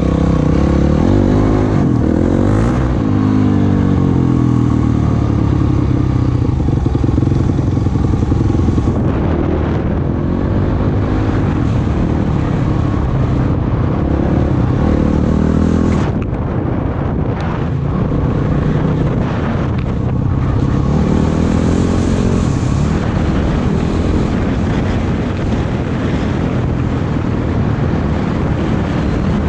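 Off-road vehicle engine running on a trail ride, its pitch rising and falling again and again as the throttle opens and closes.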